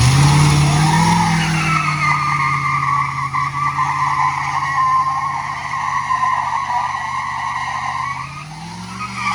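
A motor vehicle engine held at steady high revs with a long, continuous tyre squeal, its pitch rising slightly about a second in and again near the end.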